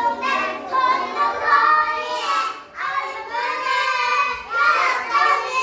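Young children singing a children's song (dongyo), their voices holding and sliding between sung notes.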